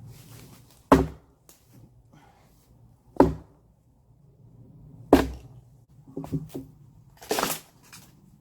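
A wedge being driven into a sawn oak log to split it apart: three heavy blows about two seconds apart, then a few lighter knocks and a short rasping noise near the end.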